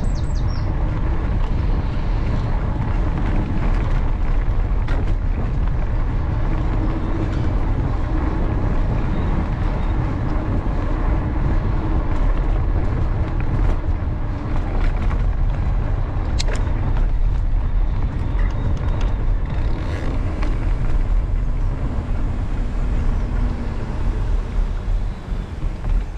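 Wind buffeting an action camera's microphone and tyre rumble from a mountain bike riding along, with scattered clicks and rattles.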